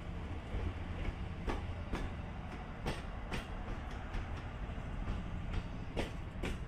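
E257 series electric train rolling slowly, its wheels clicking over rail joints in pairs about half a second apart over a steady low rumble.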